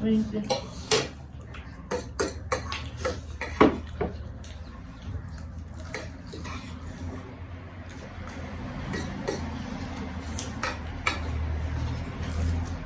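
Cutlery clinking and tapping against a bowl and plate while eating noodles and fried chicken: irregular sharp taps, thickest in the first few seconds and again near the end, over a low steady hum.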